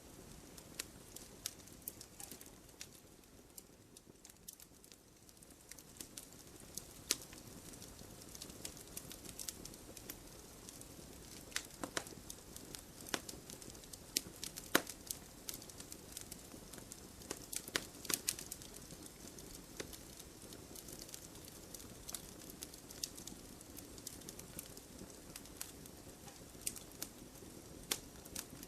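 Wood logs burning in a fireplace: irregular sharp crackles and pops, a few louder ones, over a soft steady rush.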